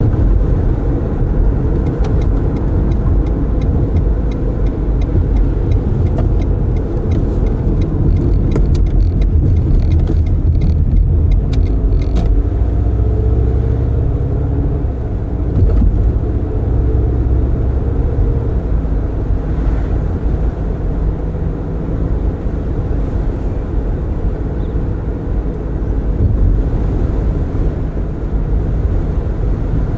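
Car driving with its windows open: steady road, tyre and engine rumble with wind, and light ticking in the first half.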